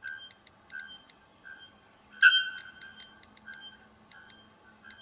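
White bellbird calling: one loud, sudden ringing note about two seconds in, over softer short chirps repeated every second or so.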